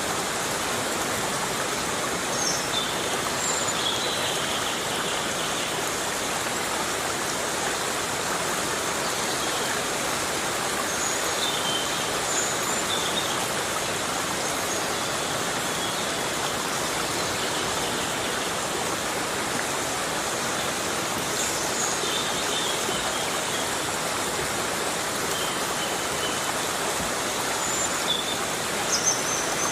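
Heavy rain falling steadily in a tropical forest: a dense, even hiss that keeps the same level throughout, with a few brief high-pitched sounds scattered above it.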